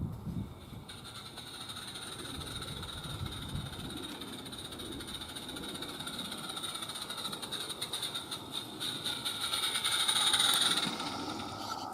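Small gas-fired live-steam garden locomotive, an Accucraft Caradoc, running along the track: a steady steam hiss with rapid exhaust beats. It grows louder to a peak about ten seconds in, then eases off.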